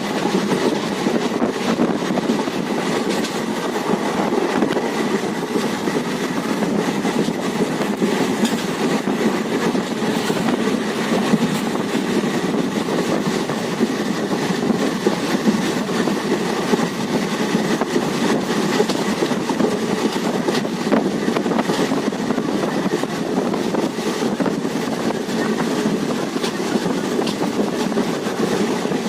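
Passenger train running along the track, heard from on board the coach: a steady rumble with a light, continual rattle and clatter from the wheels and rails.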